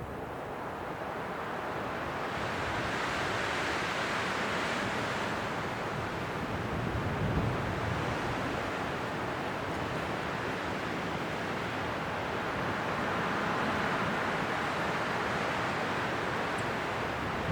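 Winter wind blowing in steady gusts, a noisy rush that swells for a few seconds at a time with no distinct events.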